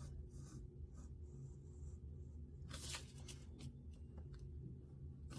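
Paper being cut and handled: faint scratching and rustling with a few soft clicks, and a louder scrape about three seconds in, over a steady low hum.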